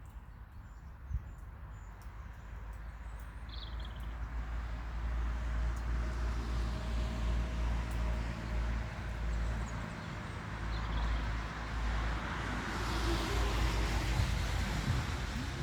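A low rumble with a noisy hiss that builds and swells twice, once around the middle and once near the end, with a bird chirping briefly about four seconds in.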